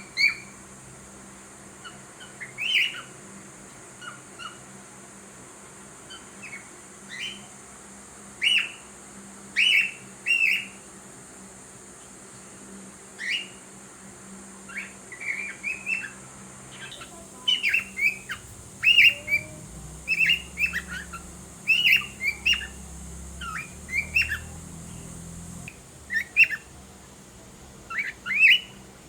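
Cockatiel giving short chirps and whistles, each call brief and sharp, scattered at first and coming thicker and faster in the second half.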